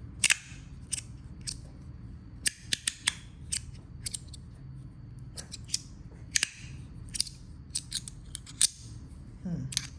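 A magnetic fidget slider being slid back and forth by hand, its parts snapping into place along the track with sharp, irregular clicks, about two a second.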